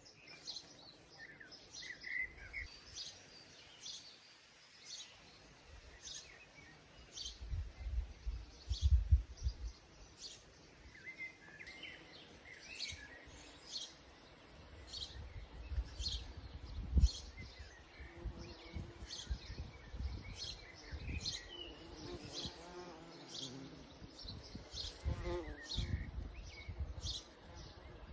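A bumblebee buzzing close by, louder in the second half, over small birds chirping and singing repeatedly throughout. Low gusts of wind rumble twice.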